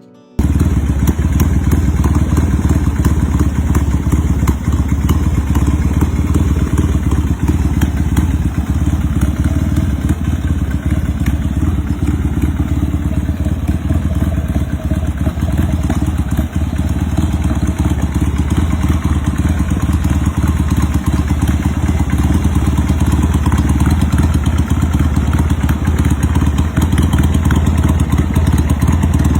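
Motorcycle V-twin engine running steadily with a deep, loud rumble and no revving.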